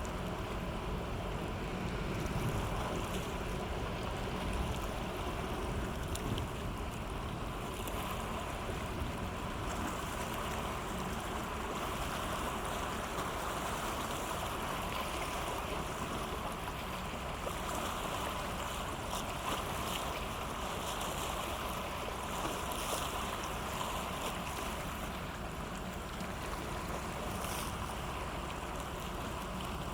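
Cargo ship's engine running steadily, a faint even hum over the wash of water and wind noise on the microphone.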